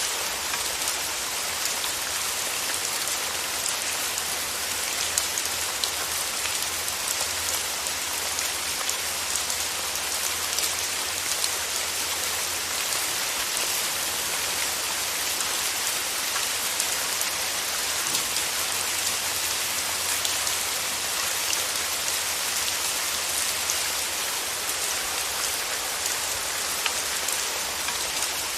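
Steady rain falling and pattering on surfaces, a dense even hiss with many small drop ticks throughout.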